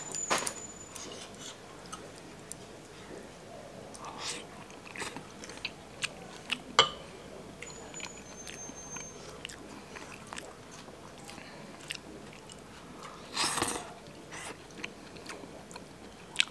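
A person eating fish and rice: quiet chewing and mouth sounds, with scattered light clicks of chopsticks on a bowl. One louder, noisier moment comes about thirteen seconds in.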